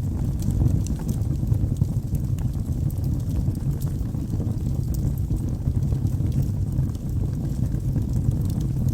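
Wood fire burning in a fireplace: a steady low rumble of the flames with frequent small crackles and pops from the logs.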